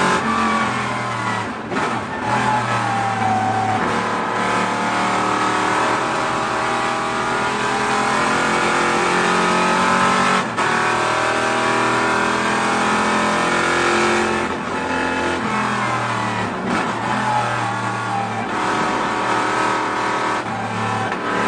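Muscle car and hot rod engines revving and accelerating, pitch climbing and dropping, in several short clips spliced together with abrupt breaks about 2, 10 and 16 seconds in.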